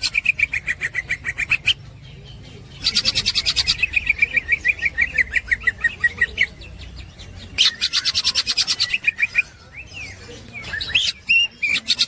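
Green leafbird (cucak ijo) chattering in its fast 'ngekek' style: bouts of rapid repeated notes, several in a row, each bout lasting one to three seconds with brief pauses between.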